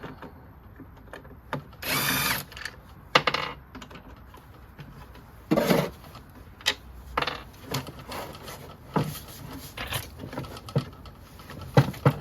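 Cordless drill/driver running in three short bursts, backing out the screws that hold the chute housing on an Echo ES-250 blower-shredder, with clicks and knocks of the tool and plastic parts between.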